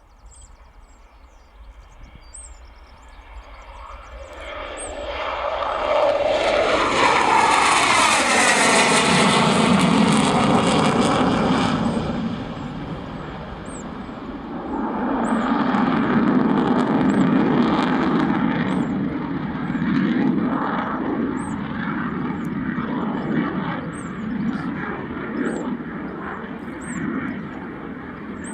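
Panavia Tornado GR4 jet, with twin RB199 turbofans, passing close. The engine whine builds to loud, then falls in pitch about eight seconds in as it goes by. A rumble follows, swells again and slowly fades.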